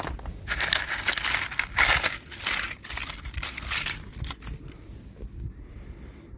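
Plastic toy packaging crinkling as it is handled and opened, in a busy run of crackly bursts over the first few seconds that dies down to lighter rustling near the end.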